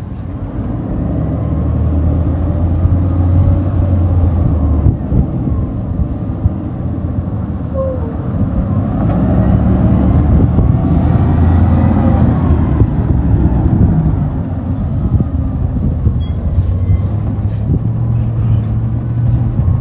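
Garbage truck running loudly. Its engine rumble swells twice, each time with a steady high hiss, as the truck works.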